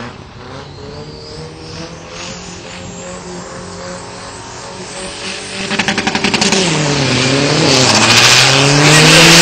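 A drag-racing Isuzu pickup's single-turbo four-cylinder engine is held at steady revs on the start line. About six seconds in it gives a quick rattle of pops and launches, its revs dipping and climbing through gear changes as it grows much louder.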